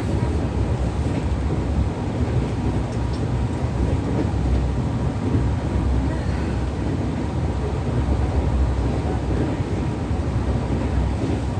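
Steady low rumble of an Indian Railways express train running at speed, heard from inside the sealed upper deck of an air-conditioned double-decker coach.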